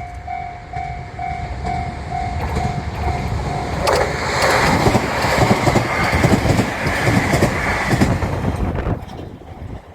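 Japanese level-crossing warning bell dinging rapidly and evenly. About four seconds in, a train passes through the crossing in a loud rush of wheel and rail noise that dies down near the end.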